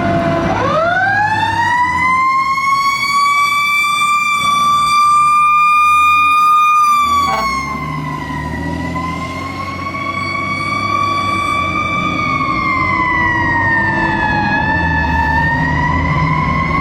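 Fire engine siren winding up about half a second in to a loud, high wail, then holding. Its pitch sags and climbs again twice, over the low rumble of the apparatus passing.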